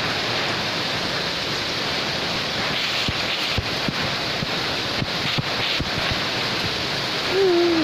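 Heavy rain pouring down on a yard and a tiled porch, a steady dense hiss, with a few light taps in the middle.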